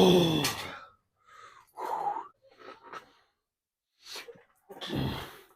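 A man's straining groan, falling in pitch, as he forces out the last rep of a heavy set; it fades within the first second. Then heavy breathing in short, loud bursts as he recovers.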